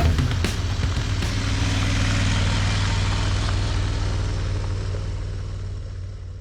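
Motorcycle riding at a steady cruise: the Aprilia Tuareg's parallel-twin engine holds a steady low drone under wind rush. The sound fades out over the last two seconds or so.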